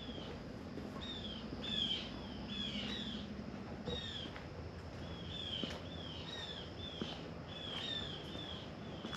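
A songbird repeating a long series of short, clear notes that slide downward in pitch, about two a second.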